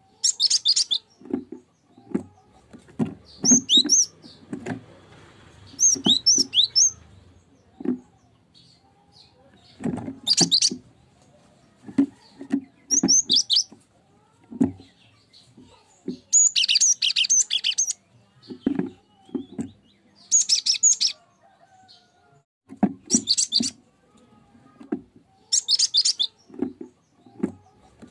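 Cinereous tit (gelatik batu) singing: short bursts of quick, high chirping and whistled notes, repeated every two to three seconds.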